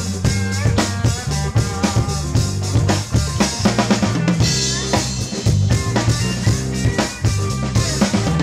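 Rock band playing an instrumental passage: drum kit keeping a driving beat with bass guitar under it and a lead line bending over the top, with a cymbal crash about four and a half seconds in.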